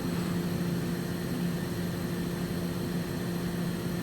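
Powered-up Hurco VM5i vertical machining center giving off a steady electrical and mechanical hum, a low drone with a fainter higher tone above it over a light hiss.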